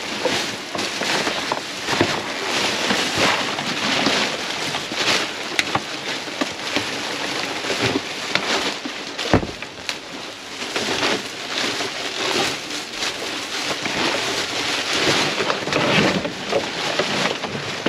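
Continuous rustling and scattered knocks of cardboard produce boxes and cabbages being handled in a dumpster, with one heavier thump about nine seconds in.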